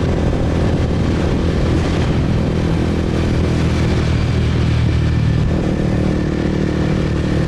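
Motorbike engine running steadily under way; its note shifts slightly a little over two-thirds of the way through.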